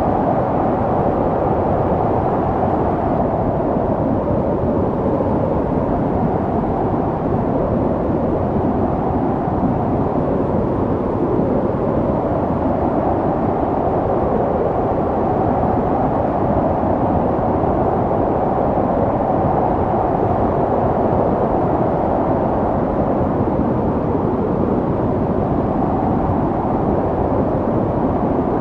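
Snowstorm wind blowing steadily: a low rushing sound whose higher tone slowly swells and fades.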